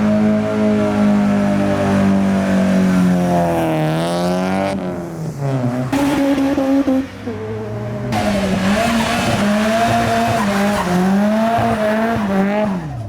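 Modified cars revving hard and accelerating away one after another, the engine note rising and falling, with tyre squeal. The sound changes abruptly a few times as one car gives way to the next.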